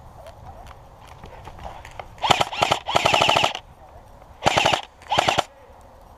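Airsoft electric rifle firing full-auto: a burst about two seconds in, broken into two parts, then two short bursts near the end.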